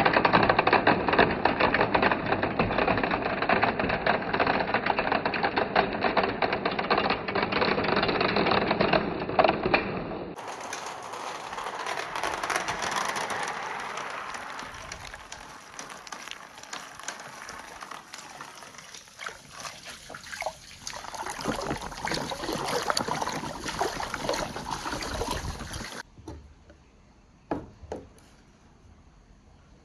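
Lots of marbles rattling and rolling through a water marble run of PVC pipes and rain gutters, with running water. It is loud and dense for about the first ten seconds. After a cut it turns to quieter rolling and trickling that fades away, ending with a few separate clicks.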